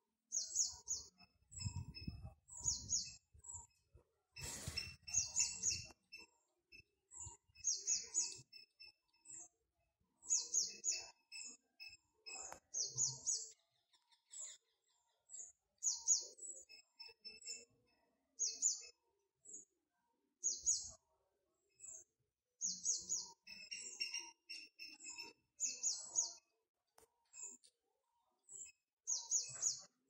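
Small bird chirping: clusters of two to four short, high notes repeated every second or two. A short burst of noise cuts across it about four and a half seconds in.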